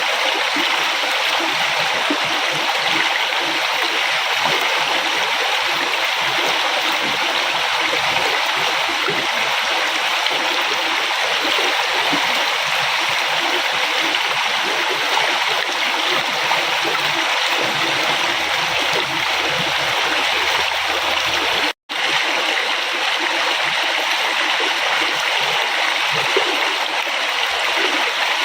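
River water flowing steadily over rocks, a dense, even rushing with light splashing and gurgling. Partway through, about three-quarters of the way in, the sound cuts out for a split second and resumes.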